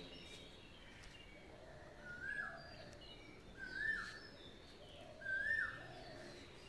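A bird calling three times, about a second and a half apart; each call is a short note that rises and then drops.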